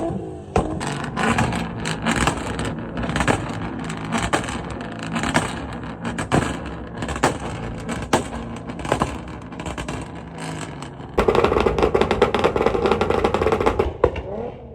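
Car engine and exhaust running with repeated sharp pops or bangs, turning louder and denser for about three seconds near the end.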